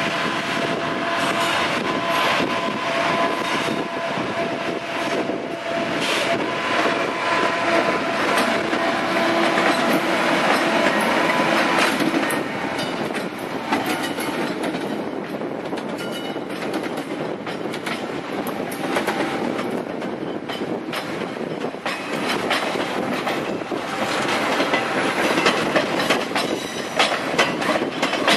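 MRS locomotives and stainless-steel passenger coaches rolling slowly past, wheels clicking over the rail joints. A steady tone runs through the first half, and the clicking gets louder near the end as the coaches go by.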